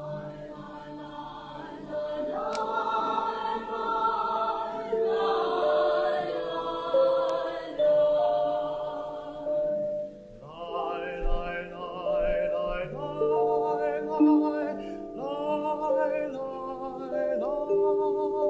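A group of voices singing a song together, accompanied by mallet instruments playing sustained notes.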